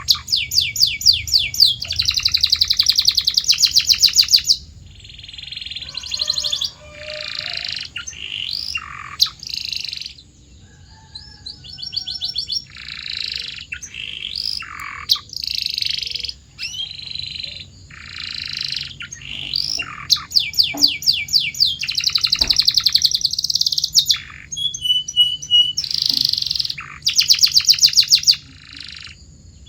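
A domestic canary singing a long, varied song of fast rolling trills and short whistled phrases, high-pitched, in bursts with short breaks between them. The loudest trills come near the start and again past the middle.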